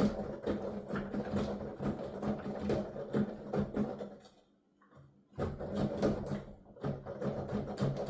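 Digital piano keys clacking and thudding under quick, continuous playing, with the piano's own sound going only to headphones so just the key action is heard. The playing stops for about a second a little past the middle, then starts again.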